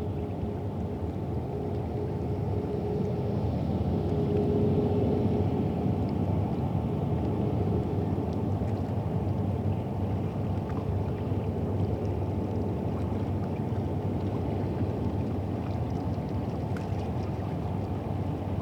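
Low, steady engine rumble of a boat on the river, swelling a little about four to six seconds in. A steady hum within it fades out around four seconds in.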